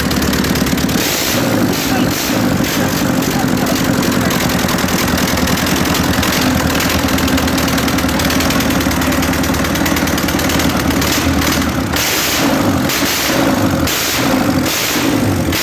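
A-41 four-cylinder tractor diesel engine running on its first start after a major overhaul; its note changes about a second in and again near the end.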